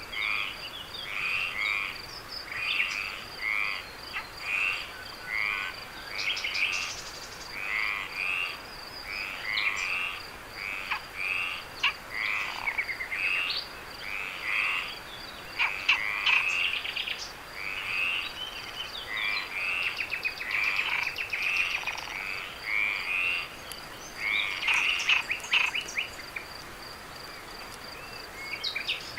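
A chorus of frogs calling in short, rapidly repeated notes, falling silent near the end. A steady high-pitched insect trill runs underneath.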